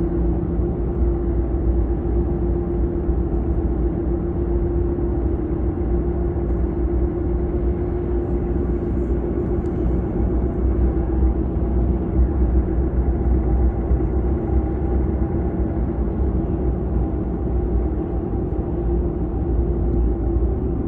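Car driving at a steady pace: a steady low road and engine rumble with a constant hum.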